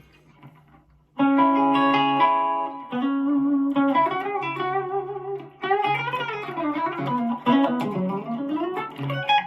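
Gibson Les Paul Custom electric guitar played clean on its bridge humbucker, an Oil City Scrapyard Dog Plus Alnico 5. After about a second of quiet come two ringing chords, then a single-note lead line with string bends and vibrato.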